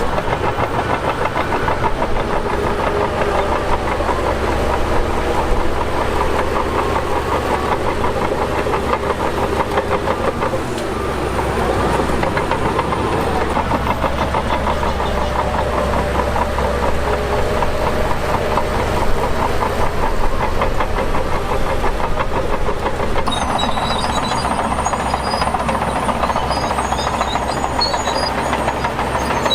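Shantui DH17 bulldozer's diesel engine running hard with a fast, even clatter as it pushes dirt. A brief dip comes a little over a third of the way through, and scattered high squeaks join in for the last part.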